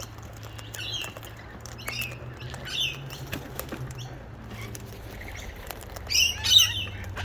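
Cockatoos giving short, high chirping calls a few times, the loudest cluster near the end, over scattered soft clicks.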